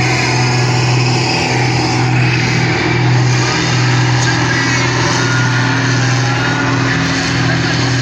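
Farm tractor engine running hard at high revs under load, as in pulling a weight sled: a loud steady drone that wavers and dips briefly a few times.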